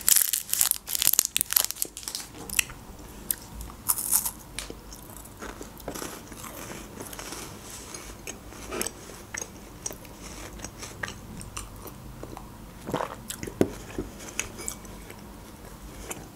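Crisp crunching as a Kit Kat chocolate wafer bar is bitten and chewed close to the microphone. The crunches come thick and fast for about the first four seconds, then thin out to quieter chewing with occasional clicks.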